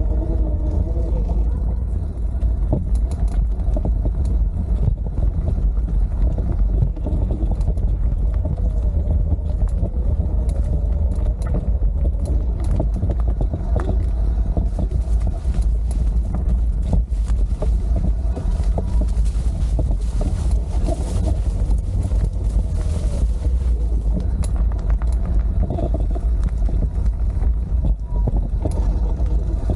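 Wind rumbling steadily on the microphone of a camera riding along on a bike, with road noise and scattered small clicks and rattles.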